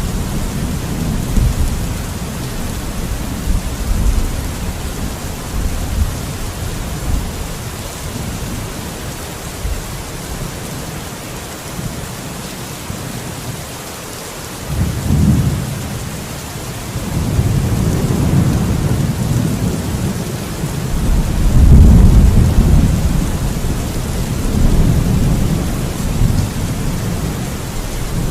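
Steady heavy rain with rolling thunder. The deep rumbles fade almost away near the middle, then build back in several long swells, the loudest a little over three-quarters of the way through.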